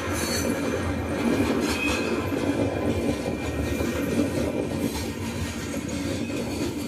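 Freight cars of a rock train rolling past, steel wheels rumbling and clacking on the rails, with faint high wheel squeal at times.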